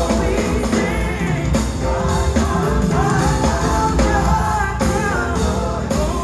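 A live gospel band performing, with singing over bass, drums and guitar.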